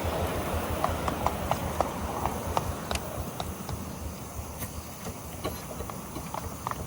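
Miniature railway train running, its wheels clicking over the rail joints over a low rumble that gradually fades.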